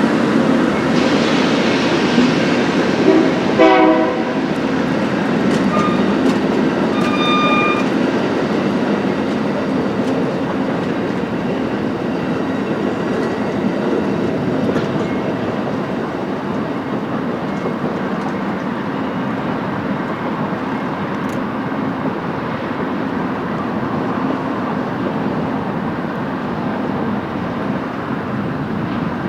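Amtrak Southwest Chief passenger train rolling past, its wheels on the rails making a steady rumble that eases slightly toward the end. A few short high-pitched tones sound near four seconds in and again around seven seconds.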